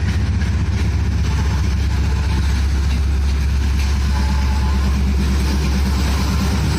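Diesel engine of a standing passenger train running steadily at idle, a deep even drone.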